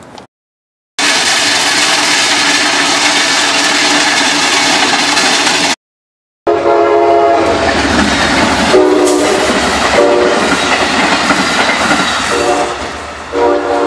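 A few seconds of loud, steady noise from rail equipment, then a passenger train rolling by with its horn sounding in several separate blasts over the rumble of the cars.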